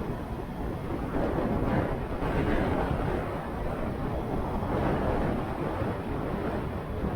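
Wind rushing over the microphone of a moving motorcycle, with road and engine noise underneath, in a steady rush that swells a little about a second in.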